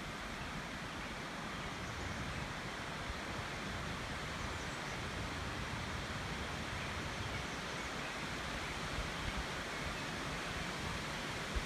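Steady rushing noise with a low, unsteady rumble, like wind on a microphone, and a few faint ticks near the end.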